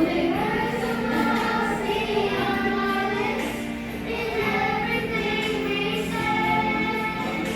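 A group singing a song together, with children's voices among them.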